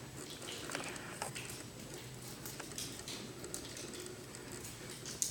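Irregular light clicks and crackles over a low steady background hum.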